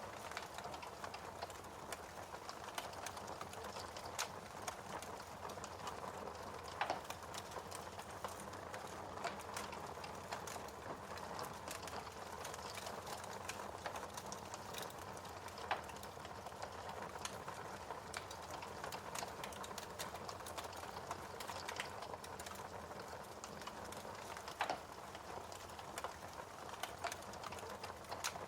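Wood fire crackling in a fireplace: a steady soft hiss with frequent small pops and ticks, and three louder snaps spaced several seconds apart.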